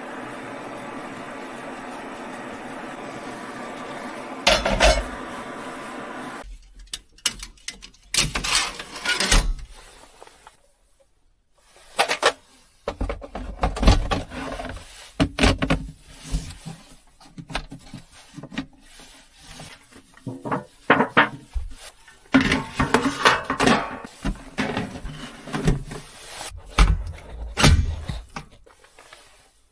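A steady mechanical hum that cuts off suddenly about six seconds in. It is followed by a run of irregular knocks, clinks and rubbing as hard objects are handled and set down.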